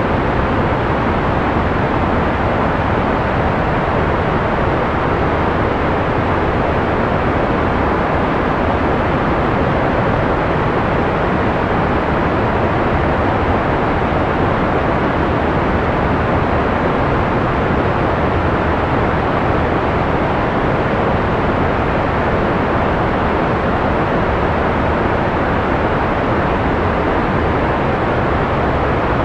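Steady, unbroken white noise: an even hiss with no changes, its top end rolled off so that it sounds soft rather than sharp.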